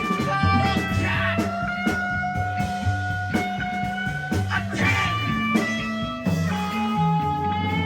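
Live rock band playing an instrumental passage: sustained electric guitar notes over a bass line and drums.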